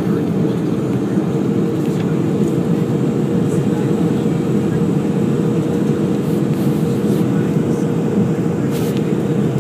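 Steady cabin noise of a Boeing 737-300 in flight: a constant low rush of airflow and engine noise, with a faint steady hum on top.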